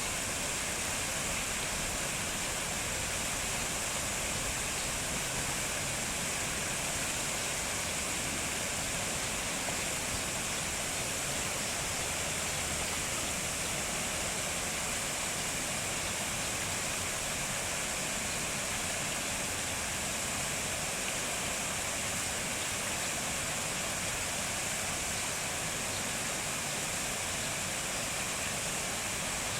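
Steady, even rushing noise that holds unchanged throughout, with no distinct bird calls or other events standing out.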